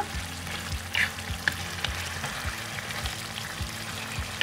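Chicken curry sizzling in a nonstick pan as its gravy cooks down. A wooden spatula stirs it, with short scrapes and taps against the pan now and then.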